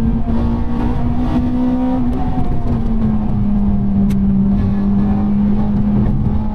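Honda Civic Type R EP3's 2.0-litre four-cylinder VTEC engine running at a steady pitch while cruising, heard from inside the cabin over low tyre and road rumble. The engine note eases down slightly about two seconds in, then holds steady.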